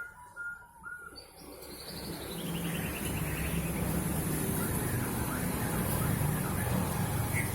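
Poksay hongkong calling: a few short repeated notes, then a rapid trill that falls steadily in pitch, about a second in. A low rumble builds up under it from about two seconds in.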